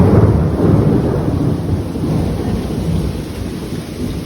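A thunderstorm with heavy rain and hail: a loud crack of thunder breaks in suddenly at the start and rumbles down slowly over the steady noise of the downpour.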